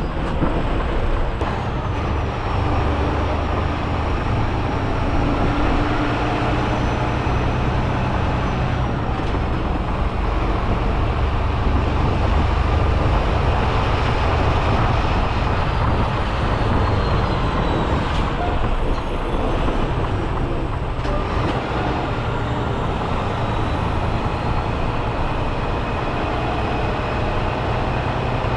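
Semi-truck driving down the road: a steady low engine drone under road and tyre noise.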